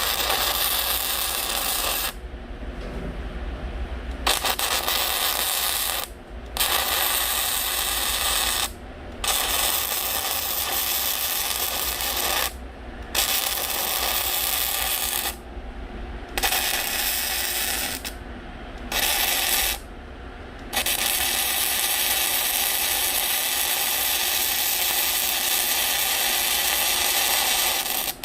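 Electric arc welding on steel plate: a steady crackling sizzle that starts and stops abruptly in runs of a few seconds, as a steel partition is welded into the stove's firebox.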